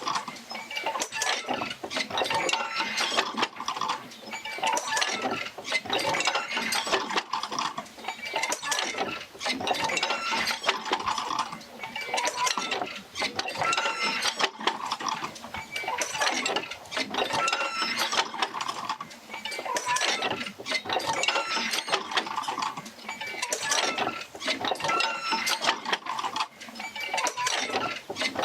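Oil-field field wheel rocking back and forth as it works its jerker lines, driven by the Fitzgerald rig: steady rhythmic clanking and rattling with short creaking squeaks, swelling and easing in a cycle that repeats every few seconds.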